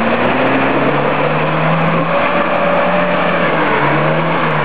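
Lada Niva's four-cylinder engine running hard at high revs as the 4x4 drives through deep mud, a steady loud engine note whose pitch wavers slightly up and down.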